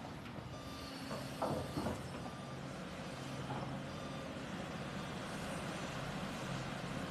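Truck engine running steadily, with a few short high tones and two brief knocks in the first couple of seconds.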